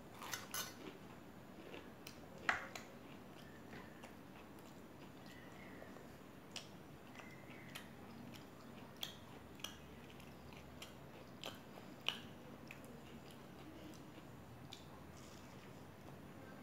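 Close-miked eating of crisp puffed rice and a fried pakoda: chewing with scattered sharp crunches, the loudest about two and a half seconds in and again about twelve seconds in.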